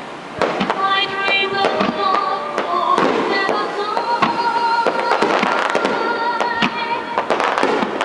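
Fireworks finale: rapid, overlapping shell bursts and bangs, several per second, with music playing under them.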